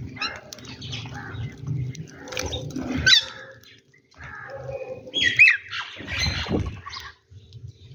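Birds squawking and calling while feeding, with a few sharp whistled notes sliding in pitch about three seconds in and again near five seconds.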